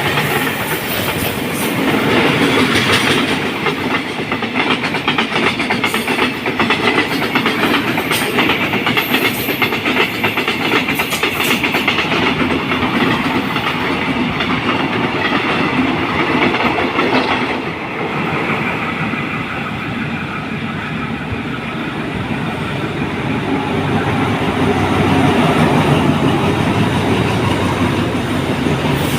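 Passenger train rolling through the station, its wheels clacking rapidly over rail joints. The sound eases a little about two-thirds of the way through.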